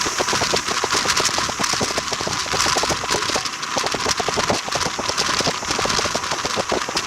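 A moving train, heard as a continuous, dense clatter of rapid clicks and rattles over a steady rushing hiss.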